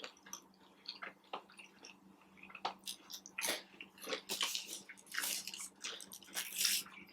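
Close-up chewing and biting of fast food: irregular wet, crunchy mouth sounds that grow busier about halfway through.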